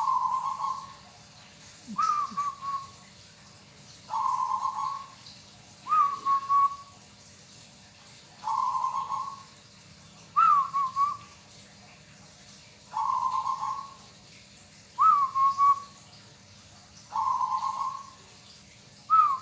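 Zebra dove (perkutut) cooing: short phrases about every two seconds, alternating a low purring coo with a higher, stuttering coo.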